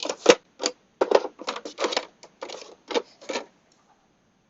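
A quick, irregular run of light hard taps and clacks, over a dozen in about three seconds, stopping about three and a half seconds in.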